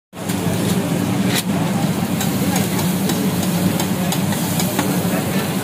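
Butter and chopped tomato sizzling on a large flat iron griddle (tawa), with a metal spatula clicking and scraping against the iron every half second or so, over a steady low hum.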